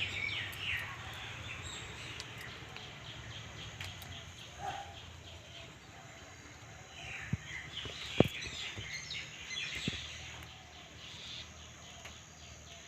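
Small birds chirping in quick runs of short falling notes, with a few sharp clicks, the loudest about eight seconds in.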